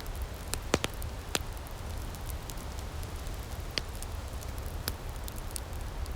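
Outdoor firepit wood fire crackling: scattered sharp pops and faint ticks over a steady low rumble, with three loud pops close together about a second in and another a little past halfway.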